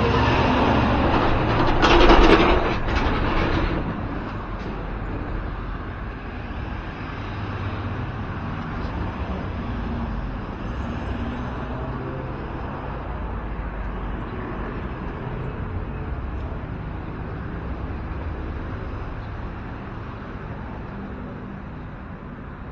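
Road traffic running steadily, with a loud surge of noise about two seconds in, then a low rumble that fades slowly toward the end.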